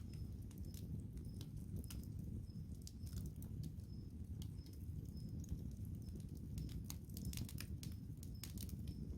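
Wood campfire burning, its logs crackling with irregular sharp pops over a low steady rumble.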